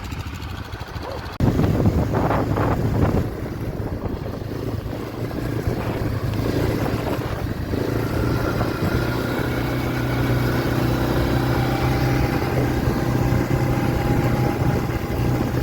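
Quad bike (ATV) engine running under way, a steady drone that gets suddenly louder about a second and a half in and then holds.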